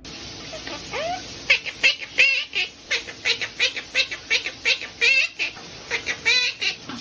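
Pet bird chirping and chattering, a rapid run of short, sharp chirps, several a second.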